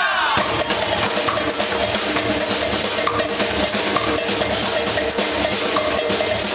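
Brazilian drum group playing a fast, steady rhythm on drums and percussion.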